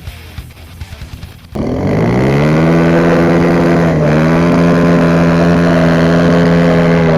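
Dirt bike engine, loud and close: about a second and a half in it comes in suddenly, its pitch rising quickly as the revs climb, then holding steady at high revs with a brief dip about four seconds in.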